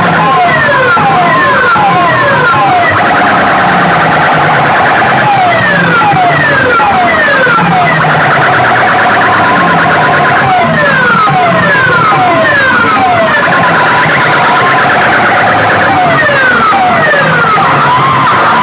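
A large DJ sound system playing electronic siren-style effects, very loud. Runs of three or four falling whistle glides repeat over a warbling tone and a pulsing low beat.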